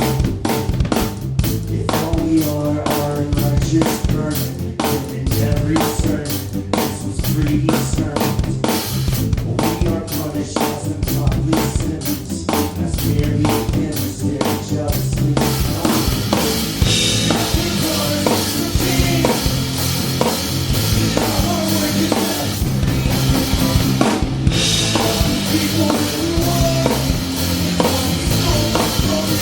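A band playing live, with the drum kit loudest and bass and other pitched instruments underneath. The drums keep a tight, even beat for the first half, then cymbals wash over the music from about halfway on.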